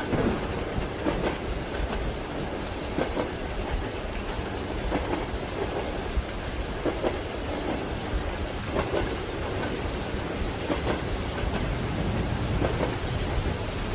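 Steady rain with a low rumble, and train wheels knocking over the rail joints roughly once a second.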